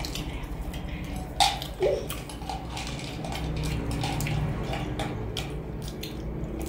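Close-up eating sounds: chewing on crispy fried spring rolls, with wet mouth noises and many short clicks, and two brief louder sounds about one and a half and two seconds in.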